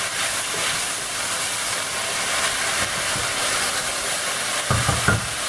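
Diced kohlrabi, bacon, onion and garlic sizzling in oil in a stainless steel pot as they are stirred with a wooden spoon: a steady hiss, with a few low knocks near the end.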